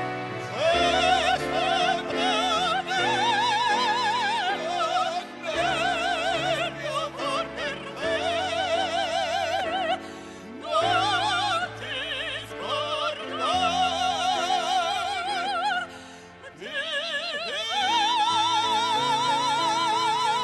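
Operatic solo voice singing with a wide vibrato over an instrumental accompaniment, ending on a long held high note.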